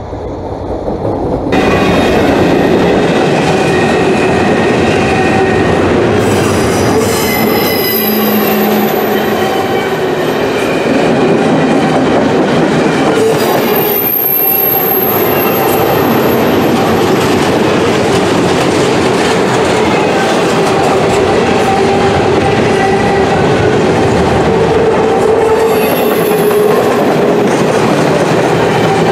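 Loaded freight train cars rolling past close by: a steady, loud rumble of steel wheels on the rails with steady ringing tones. High-pitched squeals come and go several times.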